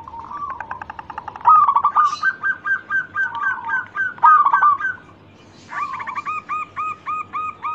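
Zebra dove (perkutut) singing. Rapid series of short, clipped cooing notes repeated several times a second, in phrases with a brief pause about five seconds in.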